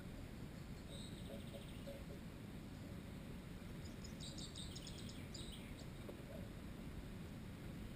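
Faint bird chirping in rapid, stuttering high-pitched series, twice: briefly about a second in and longer around the middle, over steady low outdoor background noise.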